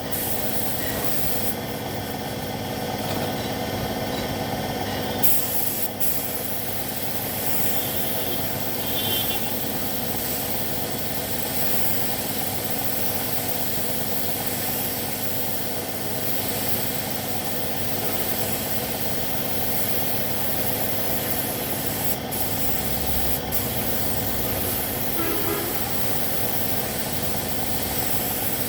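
Paint spray gun hissing steadily while spraying, over a steady mechanical hum.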